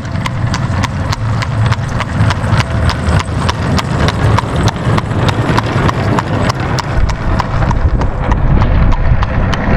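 Horse hooves clip-clopping on a hard surface in a steady, even rhythm of about four hoofbeats a second, over a continuous low rumble.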